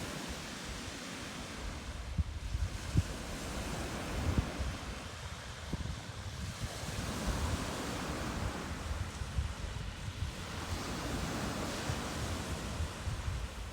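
Lake Superior surf washing onto a beach in slow swells, with wind buffeting the microphone in low gusts.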